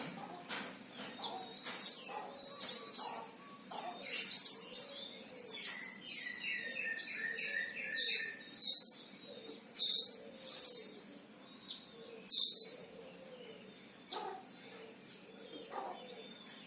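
Caged Himalayan mantenan songbird singing in repeated loud bursts of fast, high chirping phrases, with a run of lower notes around the middle. It falls to a few faint calls in the last few seconds.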